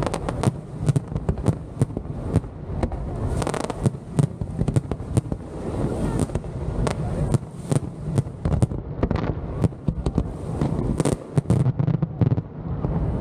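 Professional fireworks display: a dense, irregular barrage of sharp bangs from shell bursts, several a second, over a continuous low rumble.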